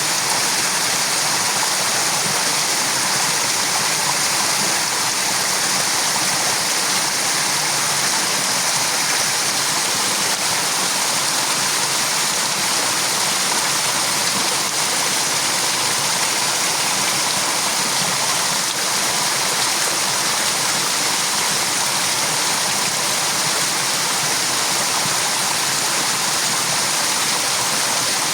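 A steady, unchanging rushing hiss, like running water, at an even level throughout.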